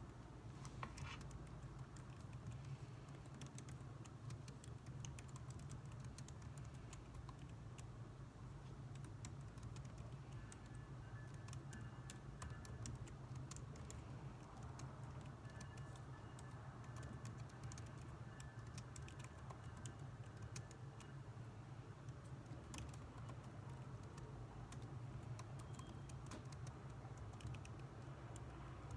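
Typing on a computer keyboard: faint, irregular key clicks over a steady low hum.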